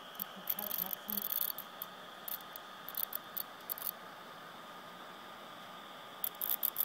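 Irregular bursts of crackling, static-like clicks from a 2010 13-inch MacBook Pro, over a steady faint whine and fan noise; the clicks stop for about two seconds past the middle and start again near the end. The owner finds it is not the hard drive, speakers or fan and suspects the power supply or logic board.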